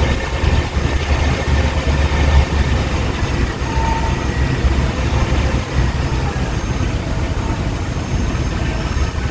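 Steady low rumble of a vehicle's engine and road noise, heard from inside the vehicle while driving.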